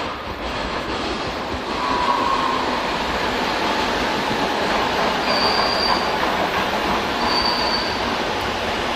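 Madrid Metro train running loudly along the track, with brief high wheel squeals about 2 s in and again in the second half.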